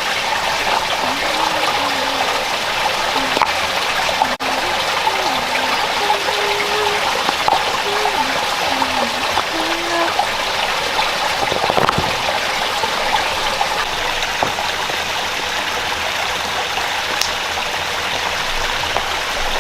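A rainforest river running steadily over rocks, a dense rushing of water.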